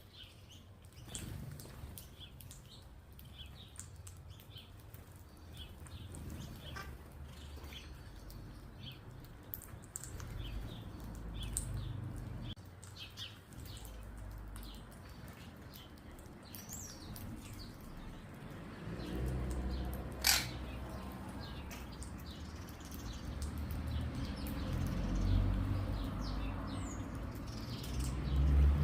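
Small birds chirping, with many short high calls scattered throughout. A low rumble swells and fades underneath, and a single sharp knock comes about two-thirds of the way in.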